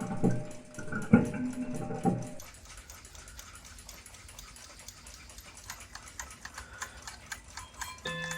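Seikosha ship's clock movement ticking steadily, its freshly rebuilt escapement and new balance staff beating quickly and evenly. In the first two seconds a dog barks a few times over it.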